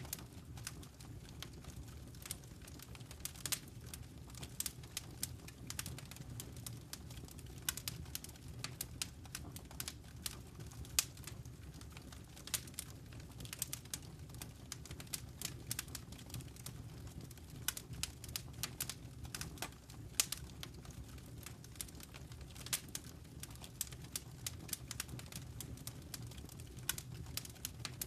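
Wood fire crackling in a fireplace: irregular sharp snaps and pops, several a second, over a steady low rumble of the burning.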